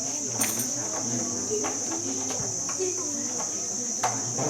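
Steady high-pitched chirring of insects, with a low murmur of voices and a few sharp clicks, the loudest about half a second in and near the end.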